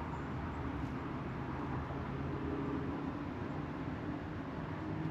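Steady low mechanical hum with a few held, slightly wavering tones over a hiss.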